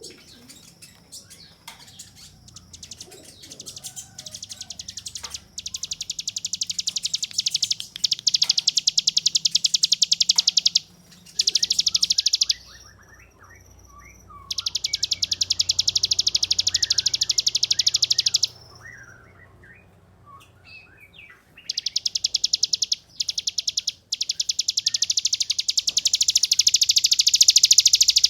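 Ciblek gunung, a prinia, singing its long 'ngebren' song: very rapid, buzzy trills of fast-repeated high notes, each bout lasting several seconds. The bouts are separated by short pauses filled with scattered chirps. The first trill builds up from quiet over the first few seconds, and the last runs on past the end.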